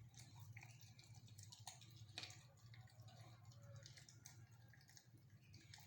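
Faint wet chewing and crunching of a raw chicken neck bone by a long-coat German Shepherd puppy: scattered soft clicks and crackles over a steady low hum.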